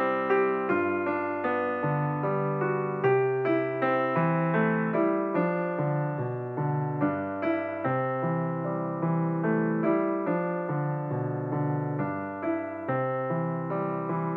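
Background piano music: an even run of single notes, a couple to a few a second, over held lower notes.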